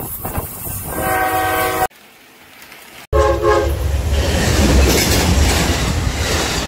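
Short clips of full-size trains cut together. A locomotive horn sounds about a second in. After a brief quieter stretch, a second short horn blast is followed by an Amtrak passenger train rumbling past with clattering wheels.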